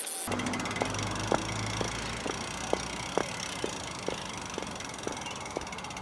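Light, sharp clicks about twice a second, at a walking pace, over a steady low rumble of outdoor background noise: footsteps of someone walking a bicycle.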